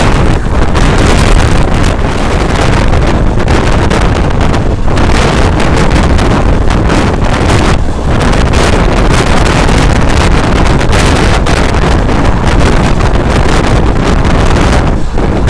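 Wind rushing and buffeting the microphone over the steady rumble of a moving passenger train running at speed.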